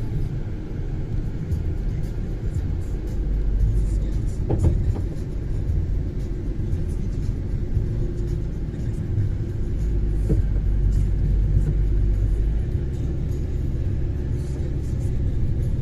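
Steady low rumble of a car being driven, heard from inside the cabin: tyre and engine noise, with a few faint ticks.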